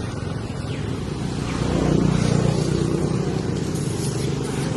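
A motor engine running steadily with a low drone, growing a little louder about two seconds in.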